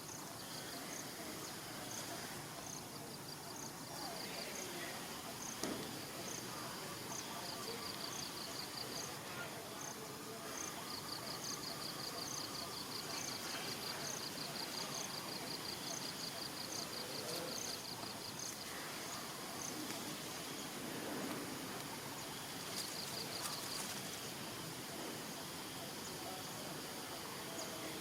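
Insects chirping outdoors: high, rapid pulsed trills come and go in bouts, with a longer run in the middle. A separate high chirp repeats steadily about once or twice a second throughout.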